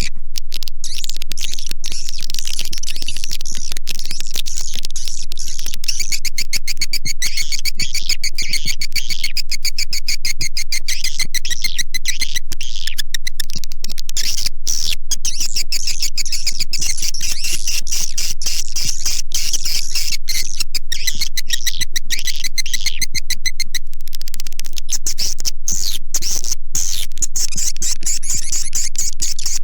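Recorded swiftlet calls used as a swiftlet-house lure sound: a dense, unbroken chatter of rapid high-pitched twittering chirps and clicks from many birds, played back loud and even.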